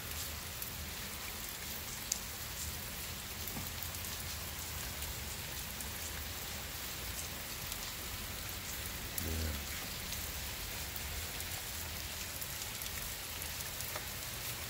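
Steady rain falling, an even continuous hiss of rainfall on the surroundings.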